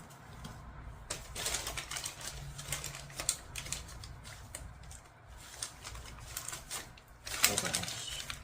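Handling noise from scooter parts being fitted: irregular clicking and rustling, with a louder burst of clatter near the end.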